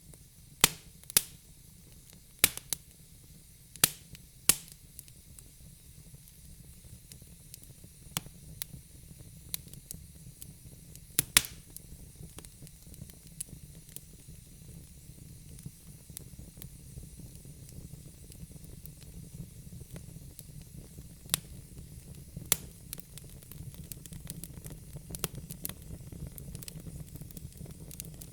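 Logs burning in a fireplace, crackling: sharp pops and snaps over a steady low hiss of the flames. A cluster of loud pops comes in the first few seconds, with a few more scattered later.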